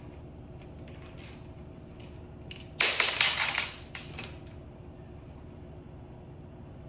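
Hand work on a mini bike's front brake: a burst of rapid rattling clicks lasting about a second near the middle, with a few single clicks just before and after.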